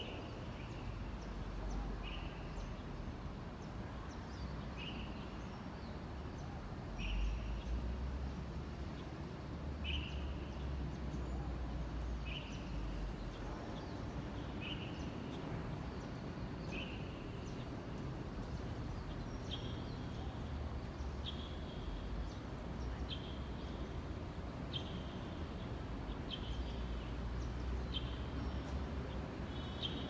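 A bird calling the same short note over and over, about every two seconds and a little faster in the second half, over a steady low rumble.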